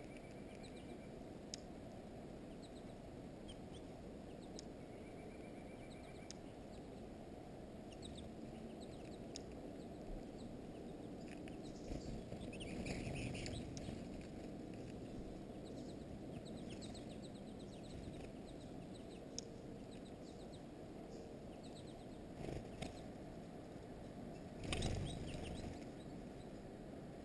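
Small songbirds at a feeder giving scattered short, high chirps and calls, with a couple of longer single-pitch notes, over a steady low background rumble. Two louder noisy bursts break in, about halfway and near the end.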